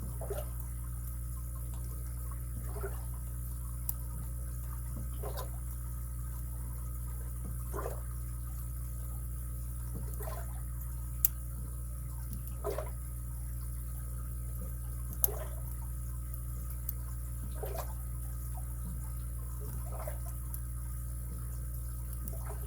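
Lock picks working the pin stack of a high-security padlock, with a faint soft sound about every two and a half seconds and two sharp clicks, one about halfway in and one about two-thirds of the way in, over a steady low hum.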